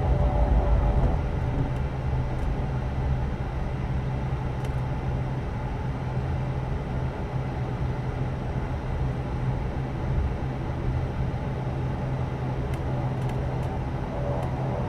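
Cabin noise of an ATR turboprop airliner with its engines and propellers running before takeoff: a steady low drone, with a heavier rumble in the first couple of seconds. A few faint ticks come near the end.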